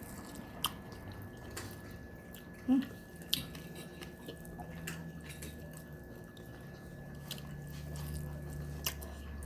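Close-miked eating sounds: wet chewing and mouth smacking, with scattered small clicks. A low hum underneath grows louder near the end.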